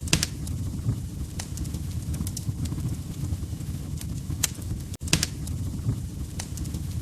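Log fire crackling: a steady low rumble of flames with sharp pops and snaps every second or so, the loudest just after the start and about five seconds in. The sound cuts out for an instant about five seconds in.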